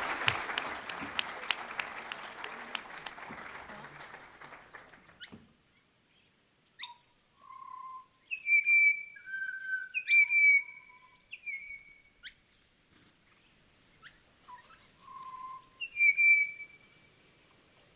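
Audience applause dies away over the first five seconds. From about seven seconds in, a bird sings loud, clear whistled notes in short phrases, pauses, and sings again near the end.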